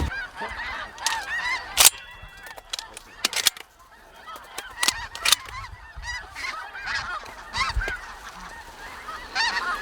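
A large flock of snow geese calling, many short high honks overlapping all the way through. Several sharp clicks cut in, the loudest about two seconds in.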